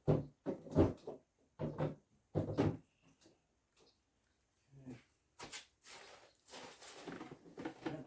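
Several sharp knocks and clunks in the first three seconds, then scraping and rustling from about five seconds in, as of parts being handled and shifted around.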